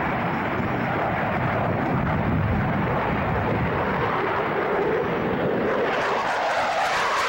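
Aircraft engine noise: a steady roar that grows brighter and higher-edged near the end as the airplane comes closer.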